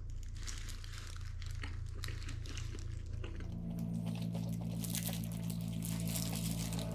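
Crinkling and rustling of food wrapping as a burger is handled, with small crunchy crackles. About halfway in a steady low hum starts up and continues.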